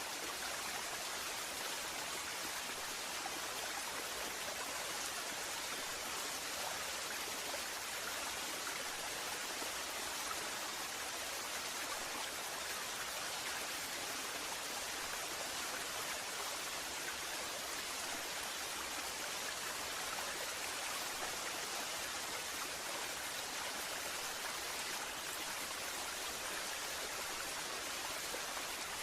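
Waterfall: water falling and splashing in a steady, even hiss with no changes.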